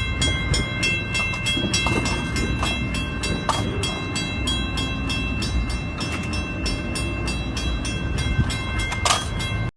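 Train passing with a steady low rumble. A fast regular clanging, about four or five strokes a second, rings over it. The sound cuts off suddenly near the end.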